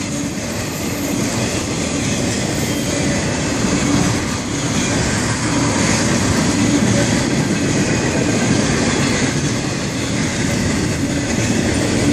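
Florida East Coast Railway freight train's cars rolling past, a steady, loud wheel-on-rail noise.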